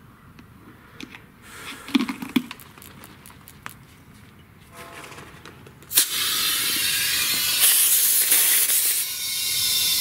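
Compressed air hissing from an air hose chuck pressed onto a wheelbarrow inner tube's valve stem as the tube is inflated. The steady hiss starts suddenly about six seconds in, after a few faint handling clicks.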